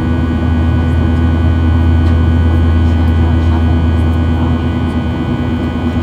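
Steady cabin drone of a Boeing 737-800 in flight, heard from a forward seat: its CFM56 engines and airflow making a loud, even rumble with a low steady hum.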